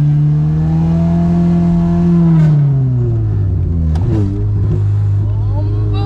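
Toyota 2ZZ-GE 1.8-litre four-cylinder engine in a Corolla pulling steadily in second gear, its revs dropping about two and a half seconds in, with a short clunk about four seconds in, then running steadily at lower revs.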